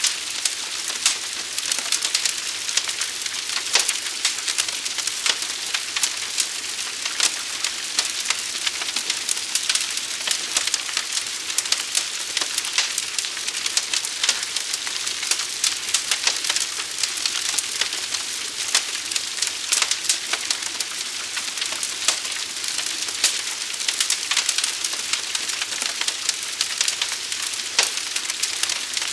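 Forest fire burning: a steady high hiss with dense, sharp crackling and popping.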